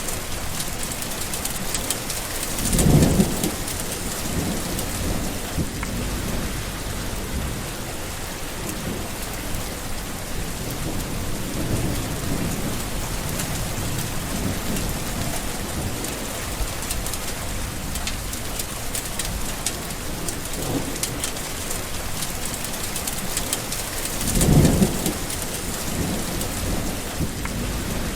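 Steady rain with thunder rumbling, two louder low rolls of thunder about three seconds in and near the end, with fainter rumbles between.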